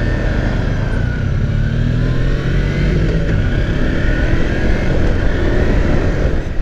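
Kawasaki Versys X300's parallel-twin engine running on the move, its pitch drifting gently up and down as the speed changes, over a heavy low rumble.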